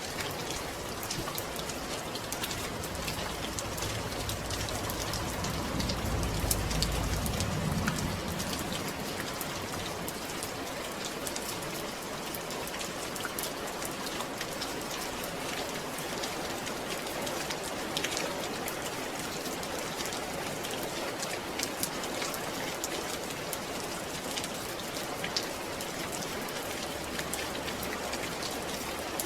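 Steady rainfall, with many small drops ticking on a surface. About four to eight seconds in, a low rumble swells and fades.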